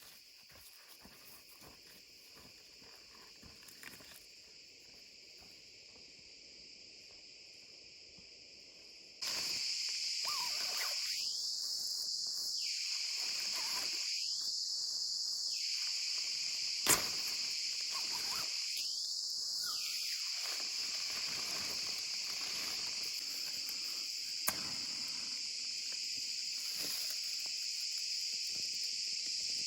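A steady, high-pitched chorus of crickets or similar insects. It is faint at first, comes in suddenly and much louder about nine seconds in, and then holds steady, with a single sharp click partway through.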